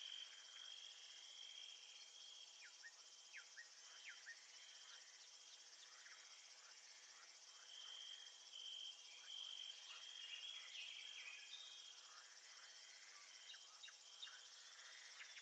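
Nature ambience: a steady, quiet chorus of insects trilling, with scattered short, falling chirps.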